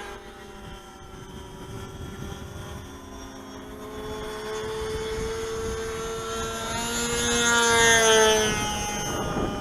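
Radio-controlled model Spitfire's O.S. .46 AX two-stroke glow engine running at flying speed as the plane passes, with a steady buzz that grows louder to a peak about eight seconds in, then drops in pitch as it moves away.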